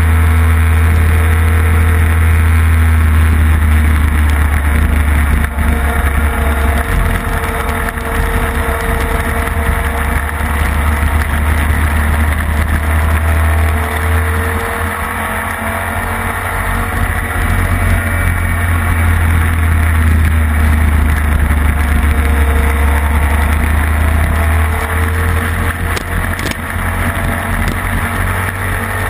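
Classic racing sidecar's engine running hard at speed, its pitch climbing slowly and dropping back several times as it changes gear, under a heavy low rumble, heard from an onboard camera on the sidecar.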